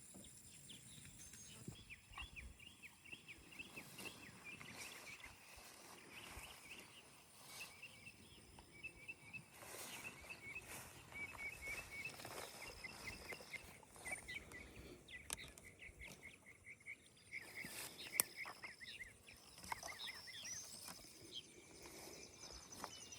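Faint outdoor ambience with birds chirping in quick runs of short notes, and a few scattered soft clicks, one sharper tick late on.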